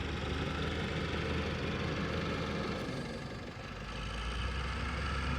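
Tractor engine running steadily, its sound dipping briefly just past halfway and then building again.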